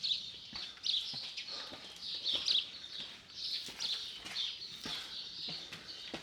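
Small birds chirping and twittering in short, repeated phrases.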